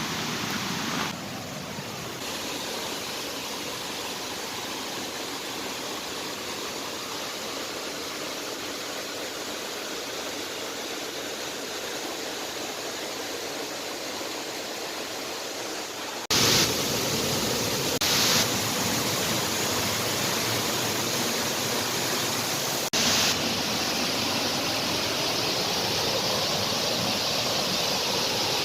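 Rushing water running steadily. It changes abruptly in loudness and tone three times, about a second in, a little past halfway and again near the end, where the sound cuts between recordings.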